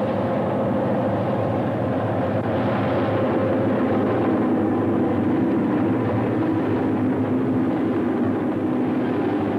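Train running: a steady rumbling drone with several held tones.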